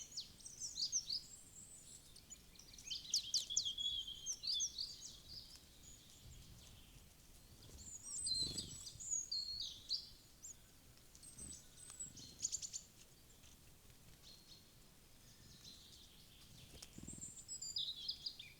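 Small wild birds chirping and twittering in short bursts, several times, with quieter gaps between and a few faint low thuds.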